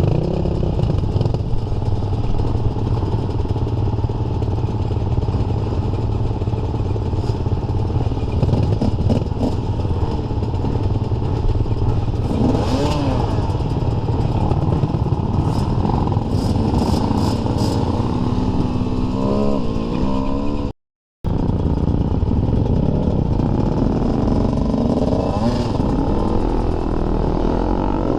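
Dirt bike engine running on a trail ride, its pitch rising and falling as the throttle is opened and closed, with a few sharp clicks and clatter from the bike near the middle. The sound cuts out completely for a moment about three-quarters of the way through.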